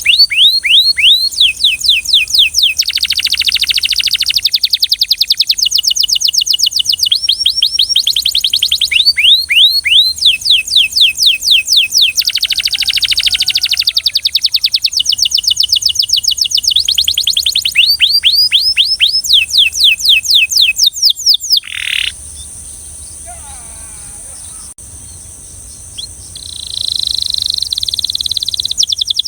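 Canary singing in fast rhythmic trills of repeated downward-sweeping notes, phrase after phrase with short breaks. About three-quarters of the way through the song stops for a few seconds, then resumes with a steady held note near the end.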